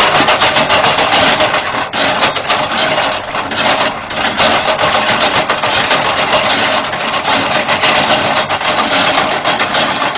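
Wood chipper running loudly and steadily, with a dense, rapid crackling throughout.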